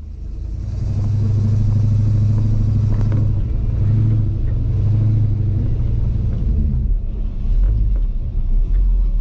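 Car engine running as the car moves off, heard from inside the cabin as a steady low rumble; about seven seconds in the note drops lower.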